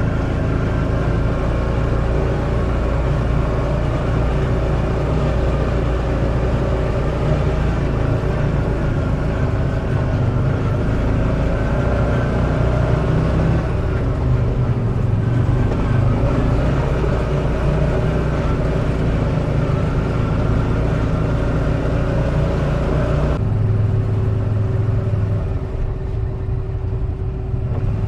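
Off-road buggy's engine running steadily while under way on a rough track, heard from on board. The engine note shifts about halfway through and again near the end.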